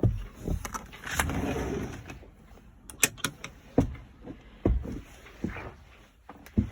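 Latches and hatch doors being shut and worked while a boat is closed up: a string of sharp knocks and clicks, with a longer rushing, scraping noise about a second in.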